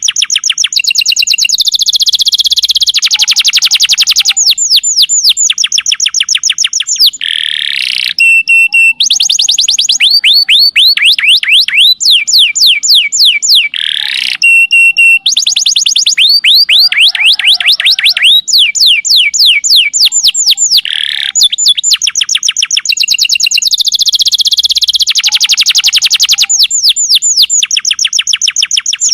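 Canary song played as a masteran training recording: loud, continuous fast trills of repeated downward-sweeping notes, phrase after phrase with brief breaks.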